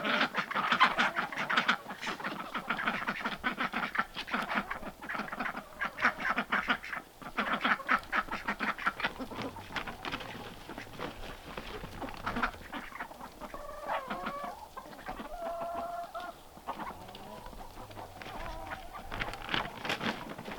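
Backyard poultry calling: a dense run of quick clucks and quacks for the first ten or so seconds, then a few drawn-out calls about two thirds of the way in, and scattered calls after that.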